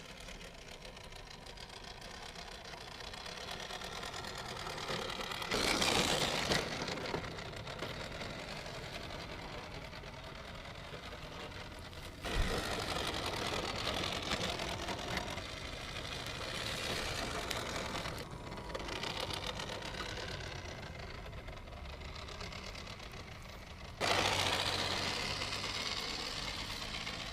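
Electric motor and three-speed gearbox of a vintage Tamiya Hilux 4x4 RC pick-up truck whirring as it drives, in several short stretches that change suddenly a few times.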